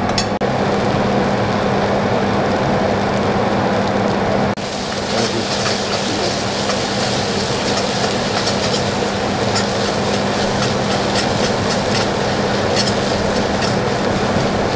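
Tomato and onion chutney sizzling and spluttering in hot oil in a pan over raised heat as its water cooks off, with a steady low hum underneath. Sharper crackles come in after a brief dip about four and a half seconds in.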